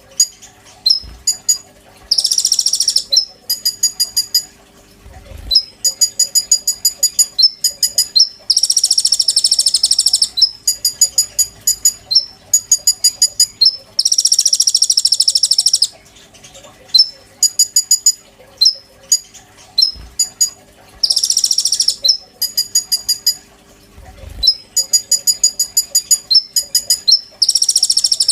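Konin bird singing loudly in repeated phrases: fast runs of sharp, high ticking notes alternating with dense, buzzy trills lasting a second or two.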